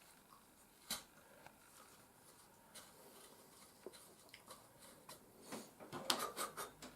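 Small clicks, taps and scratching from a hand tool being worked through a card model platform to make a hole for wires. There is one sharp click about a second in and a quick flurry of clicks and rustling near the end.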